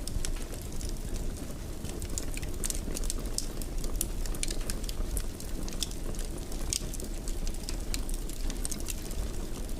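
Wood fire crackling in a fireplace: many small, irregular pops and snaps over a steady low rush of flame.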